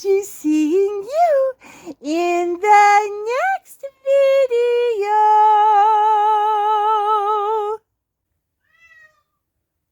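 Meow-like calls: a quick run of short calls that rise and fall in pitch, then one long call with a wavering pitch that cuts off suddenly near eight seconds. A faint short mew follows about a second later.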